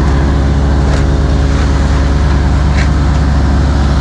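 Heavy-equipment diesel engine running steadily at a constant speed, a loud low drone close to the microphone.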